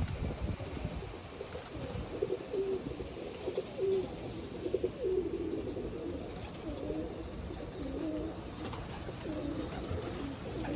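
Pigeons cooing, a run of low coos one after another, over some low wind rumble on the microphone.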